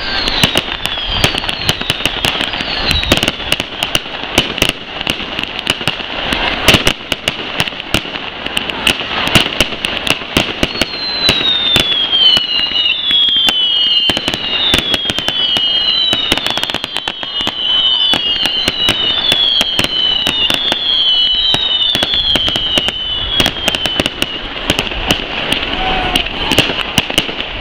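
Fireworks display: dense, rapid bangs and crackling from bursting shells and ground effects, over a steady hiss. From about a third of the way in to near the end, a run of overlapping falling whistles sounds among the bursts.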